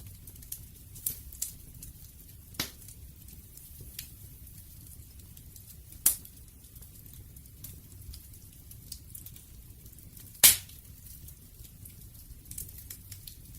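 Wood fire crackling: scattered small pops and snaps over a low steady rumble, with two sharper, louder pops about six seconds in and again about ten seconds in.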